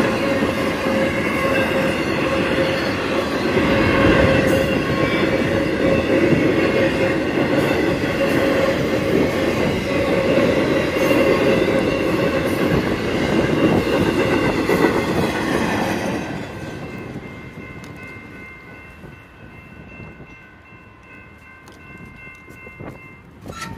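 Freight train of intermodal trailers rolling past a grade crossing, a loud steady rumble of wheels on rail that falls away about two-thirds of the way in as the last car clears. Steady ringing from the crossing's warning bell carries on under and after it and stops just before the end.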